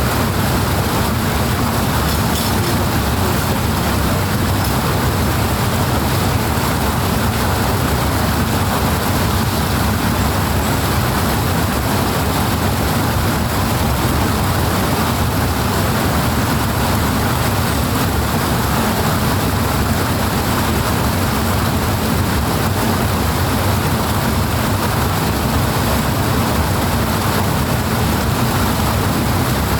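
Rushing water, a loud, steady, unbroken rush with a deep rumble underneath.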